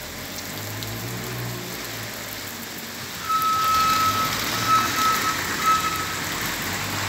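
Steady rain falling on a cobbled street. About three seconds in, a car drives past on the wet road with tyre hiss, while a reversing alarm beeps, one long beep then three shorter ones.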